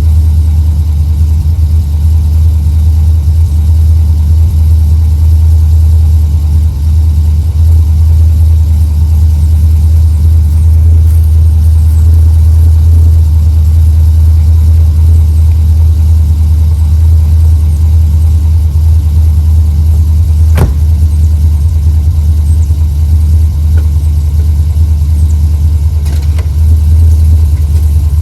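Car engine idling steadily, loud and low-pitched. A single sharp click about two-thirds of the way through.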